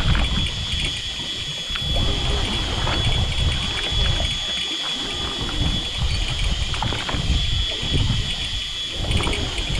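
Water sloshing and lapping against a boat's hull in uneven surges, over a steady high-pitched tone.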